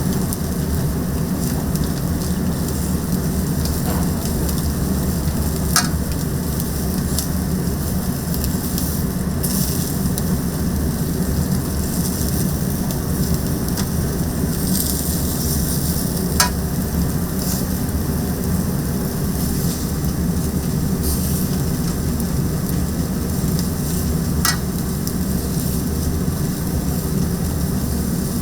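Kitchen sounds: a steady sizzling noise over a low hum, with a few sharp clicks.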